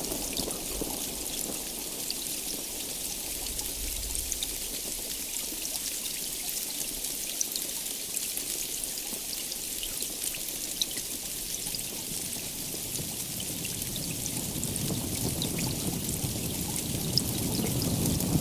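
Steady heavy rain: a dense hiss dotted with small ticks of individual drops. A low rumble swells near the end.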